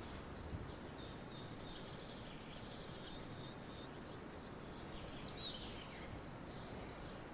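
Small birds chirping and calling faintly, with short high notes scattered throughout and a falling call a little after halfway, over a steady background hiss.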